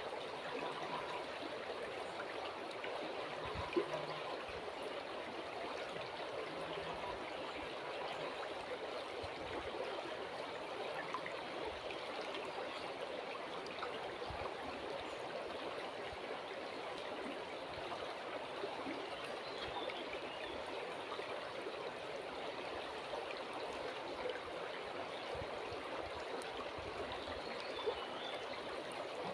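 River water flowing steadily, a continuous rushing and trickling. Two brief clicks stand out, one about four seconds in and one near the end.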